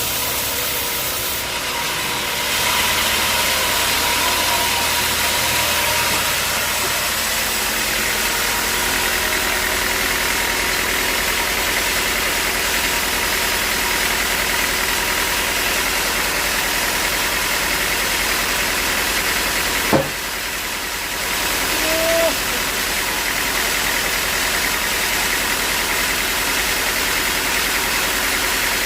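Sawmill machinery running steadily, a constant mechanical drone with a whine on top. About twenty seconds in a sharp knock comes, the noise dips for a second, and a short squeak follows.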